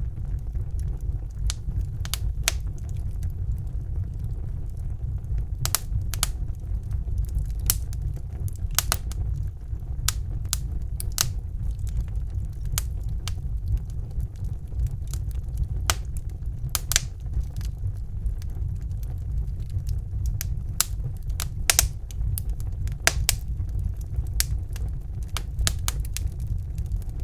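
Wood fire burning in a brick fireplace: irregular sharp crackles and pops over a steady low rumble of the flames.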